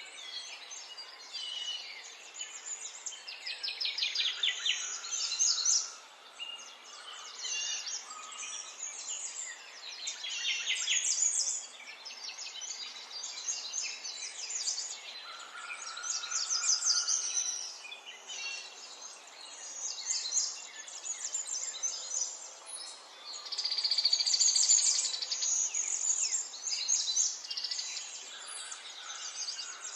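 Several songbirds singing at once: overlapping rapid, high trills and chirps, with louder song phrases coming every few seconds.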